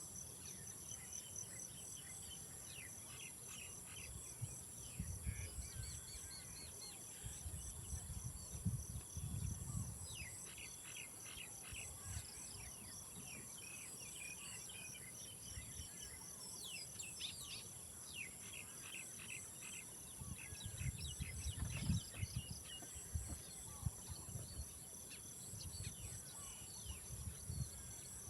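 Outdoor ambience of insects: a steady high-pitched drone with a repeating pulsed chirp over it, and birds calling in short chirps through the middle. Low rumbling comes and goes now and then.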